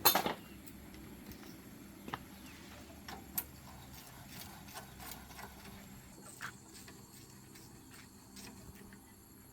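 Scattered light knocks and clicks from tools and parts being handled, with a sharper knock at the start, over a faint low hum.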